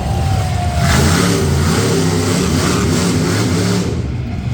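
Monster truck engine running loud and revving, its pitch rising and falling as the throttle changes.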